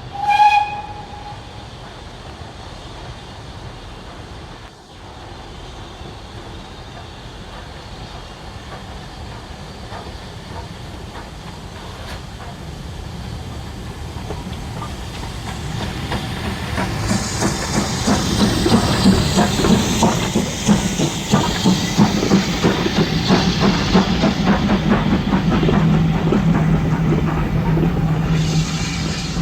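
A train running on rails and growing steadily louder, opening with one brief high toot. From about halfway, rapid wheel clicks over the rail joints build up, with a steady low engine note in the last few seconds.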